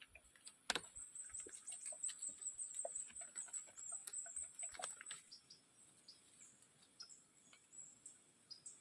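A high, wavering chirping trill from a small animal, which stops about five seconds in, over scattered small clicks and rustles.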